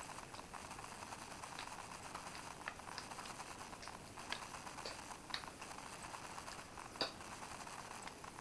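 Hands being washed under a running tap: a steady low rush of water with scattered small splashes and clicks, the sharpest about seven seconds in.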